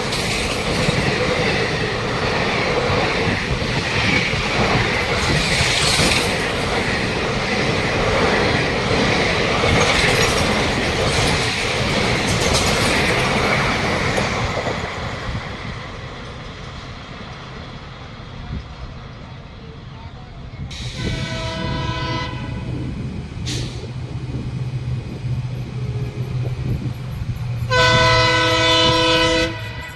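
An Indian Railways express train passing close by, its coaches clattering over the rail joints, the noise dying away. Then the locomotive of the next train sounds its horn twice, a short blast and then a longer one, over a steady low engine hum as it approaches.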